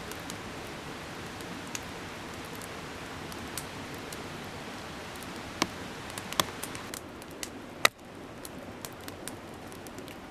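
Steady hiss of running water, with a few sharp snaps scattered through the middle; the loudest snap comes about eight seconds in, and after it the hiss is slightly quieter.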